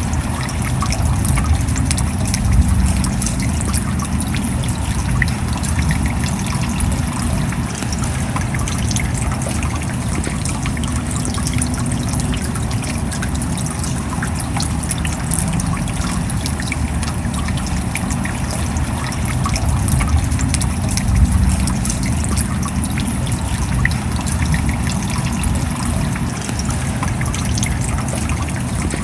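Steady rain, a dense patter of drops, with trickling water and a low rumble underneath.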